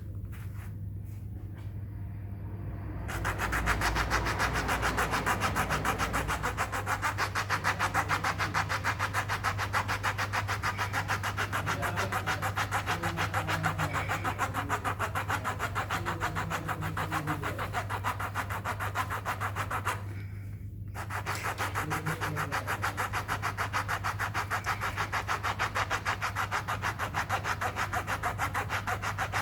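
Fast, even rasping strokes, typical of roughening a bicycle inner tube around a puncture before a patch is glued on. The scraping starts about three seconds in and breaks off briefly about twenty seconds in, over a steady low hum.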